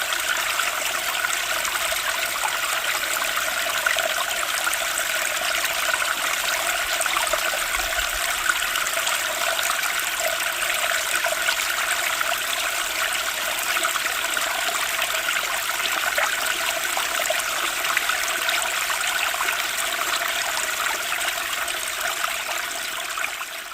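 Flowing water, a steady, unbroken rush like a running stream, fading out right at the end.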